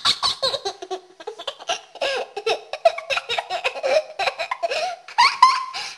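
A child giggling and laughing in a fast run of short bursts, with a higher squealing laugh near the end.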